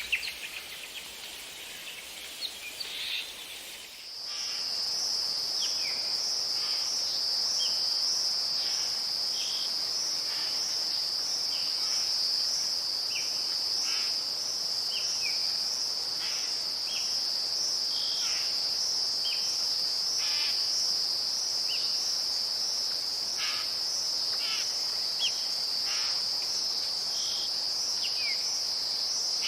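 A steady high insect trill that starts abruptly about four seconds in, with short scattered bird chirps over it; before the trill starts, a few bird calls.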